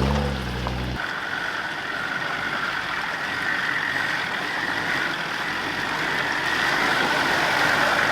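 Off-road 4WD engine running at low revs during a slow crawl through muddy bogs. It starts as a deep hum, then about a second in the sound changes abruptly to a steady hiss with a high whine.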